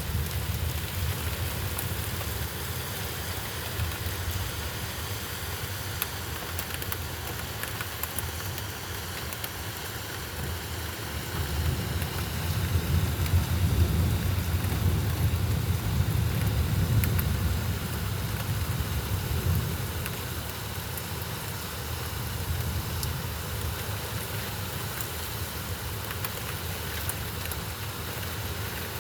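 Rain falling steadily with sharp drips now and then. A low rumble swells about eleven seconds in and fades out by about twenty seconds.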